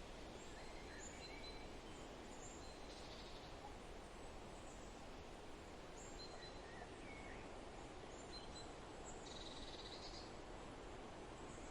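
Faint forest ambience: a steady background hiss with scattered short, high bird chirps, and two brief buzzy trills, one about three seconds in and one near the end.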